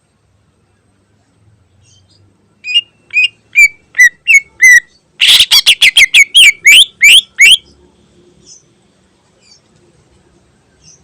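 Greater green leafbird (cucak ijo) singing: a run of six clear, slurred whistles, then a faster, louder series of about nine sharp notes, after which the song stops about halfway through.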